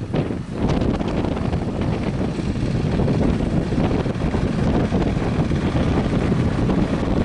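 Strong wind buffeting the microphone, a dense steady rumble.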